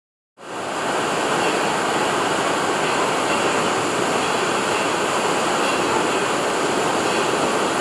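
Steady rush of flowing water on a tube water slide, starting suddenly about half a second in and holding even throughout.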